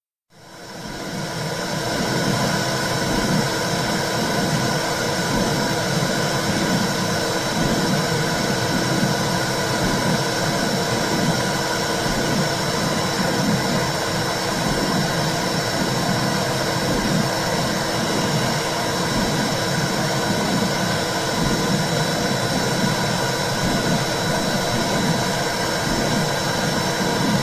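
Womb sound for soothing a baby: a steady whooshing rush with a slow, rhythmic low pulsing beneath it. It fades in over the first couple of seconds.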